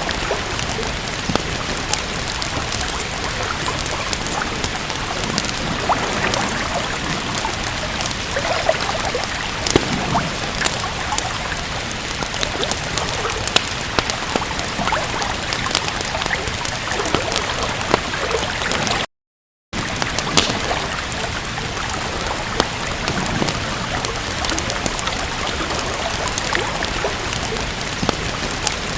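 Steady rain with the crackle and pop of a wood fire, many small irregular snaps over an even wash of rain. The sound cuts out completely for about half a second about two-thirds of the way through, then resumes unchanged.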